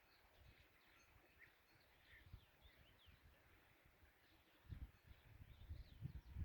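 Faint, distant birds chirping over quiet meadow ambience, with irregular low rumbling creeping in near the end.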